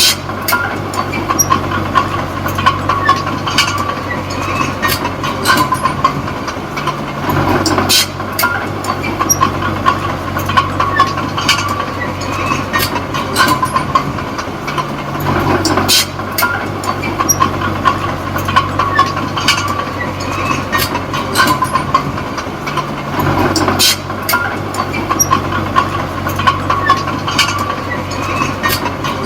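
Komatsu D20P small crawler bulldozer's diesel engine running under work. The engine note shifts about every eight seconds, with frequent clanking and squeaking from the steel tracks.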